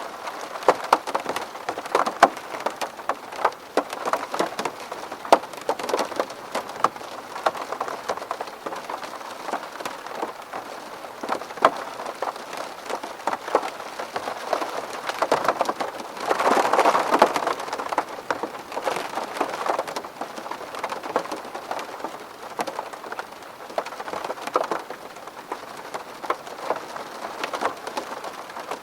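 Rain falling steadily on a window pane, many separate drops ticking against the glass. A little past halfway it briefly grows heavier.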